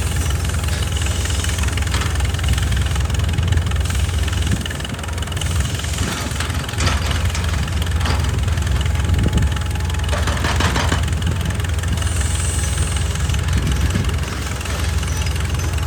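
Excavator's diesel engine running steadily, with scattered knocks and clanks over it.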